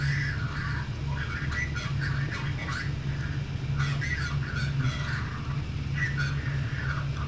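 3D printer running a print: its stepper motors whine in short, constantly shifting pitches as the print head darts about, over a steady low fan hum.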